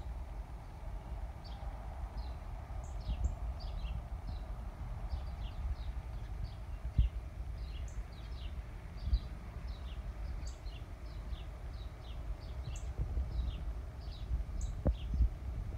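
Small birds chirping in the background: many short falling chirps, a few a second, with now and then a higher note. Under them a steady low rumble, with a few soft thumps.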